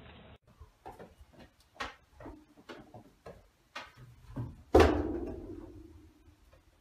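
A run of light taps and knocks, then about five seconds in a single loud bang that rings on and dies away over about a second and a half, inside a corrugated-metal storage container as a cat jumps down from a stack of tyres.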